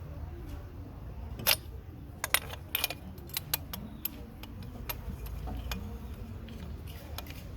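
Sharp metal clinks and taps of tools or parts being handled, a dozen or so in irregular clusters, over a low steady rumble.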